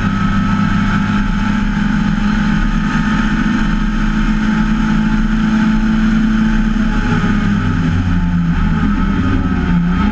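MGA race car's four-cylinder engine heard from the open cockpit, running at steady high revs along a straight; in the last few seconds the note wavers and drops a little as the revs come down.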